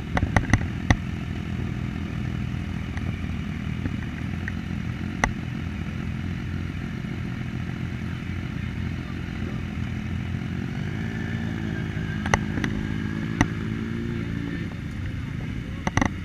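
Yamaha Tracer 900's inline-three engine running steadily at low revs, its pitch rising briefly about eleven seconds in, with a few sharp clicks.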